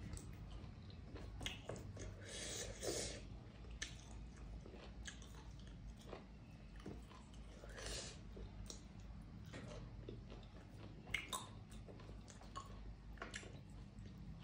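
A person chewing soft maize dhido eaten by hand, with wet mouth sounds, lip smacks and scattered small clicks, faint and close.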